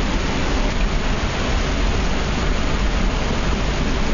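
Hurricane rain and wind: a steady, loud rushing noise with a deep wind rumble on the microphone.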